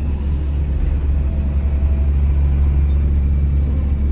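Chao Phraya tourist boat's engine running steadily under way, a continuous low rumble with a steady hum over it.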